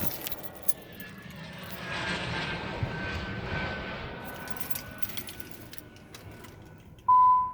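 Nissan 300ZX Twin Turbo's VG30DETT V6 running just after start-up, with a faint high squeal that slowly drops in pitch. The owner says this squeal is usual for these Nissans and goes away. A loud, steady beep sounds briefly near the end.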